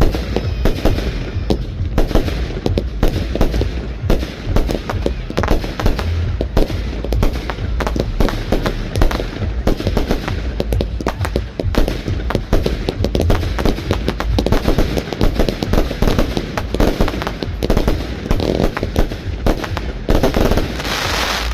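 Fireworks display: a rapid, continuous barrage of bangs and deep booms from aerial shells going off one after another, with a denser burst of crackling near the end.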